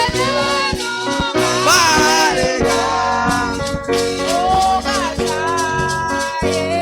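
Live church worship music: a voice sings long, sliding melodic lines over held instrumental notes and a steady beat with rattling percussion.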